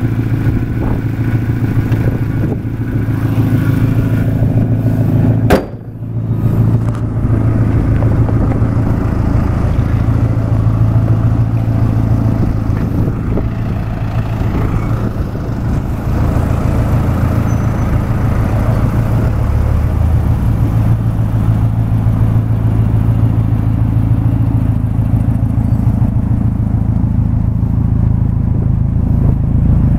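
Subaru Impreza WRX's 2.0-litre turbocharged flat-four engine idling with a steady hum. About five and a half seconds in there is a sharp click and a brief drop, and then the same idle carries on.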